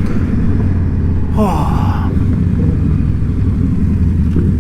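Indian Scout Bobber V-twin running steadily at riding speed, with a dense low engine and road rumble. A short, higher-pitched gliding sound cuts in briefly about a second and a half in.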